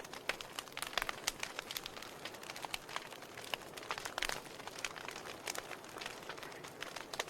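Wood fire crackling in a fireplace: logs popping in irregular sharp clicks over a low steady hiss of flames.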